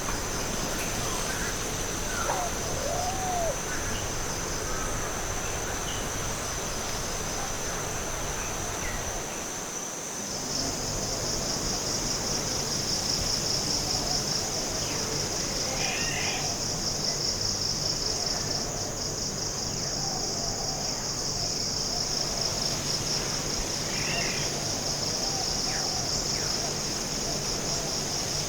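Forest ambience dominated by a steady, high-pitched insect chorus. About ten seconds in the chorus grows louder and turns into a fast pulsing trill. Faint, short bird calls are scattered throughout.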